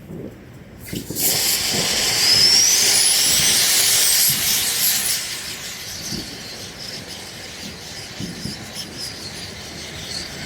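Fountain firework catching about a second in and spraying sparks with a loud hiss, a rising whistle at its strongest, then burning on with a steadier, quieter hiss.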